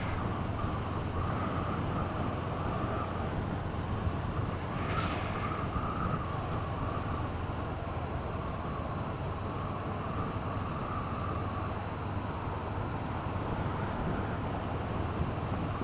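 2017 Honda CB500F parallel-twin engine running under way, mixed with steady wind noise on a helmet-mounted microphone. A brief high hiss about five seconds in.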